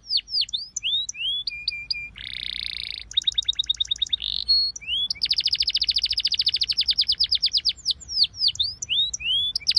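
A songbird singing a varied song of rapid trills and slurred whistles, with a short harsh buzzy note about two seconds in and a long fast trill from about five to eight seconds in.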